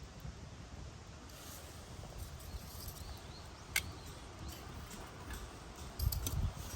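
Wood campfire crackling, with one sharp pop about halfway through and a few quicker snaps near the end, over a low rumble.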